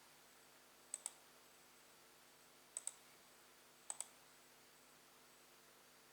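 Three double-clicks of a computer click button, each a pair of sharp clicks a split second apart, over a near-silent background with a faint steady hum.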